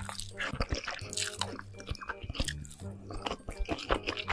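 Close-miked wet chewing of a mouthful of cheesy ramen noodles, a dense run of irregular squishy smacks and clicks.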